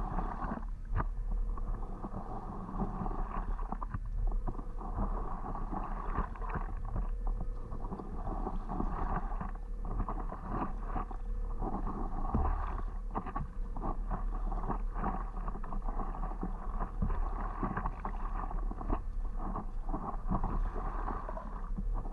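Water lapping and splashing around a stand-up paddleboard as it is paddled, with irregular small splashes throughout.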